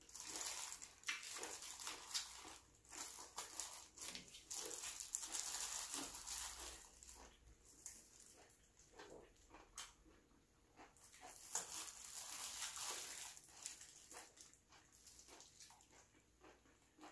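Close-miked eating sounds: a person chewing and smacking saucy food, with many small wet clicks and a few longer soft hissing stretches.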